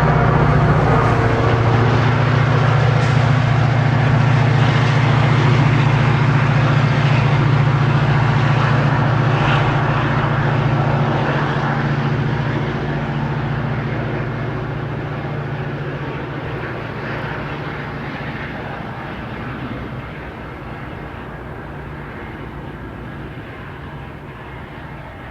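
An EMD F40-series diesel locomotive on a Metra commuter train running past with a steady, loud engine drone, which fades gradually from about halfway through as the train moves away.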